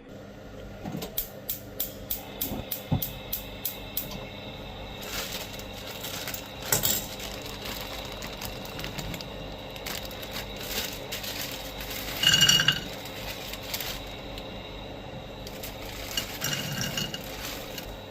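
Kitchenware being handled: a quick run of clicks, about four a second, then scattered knocks and clinks of metal or crockery, two of them ringing briefly.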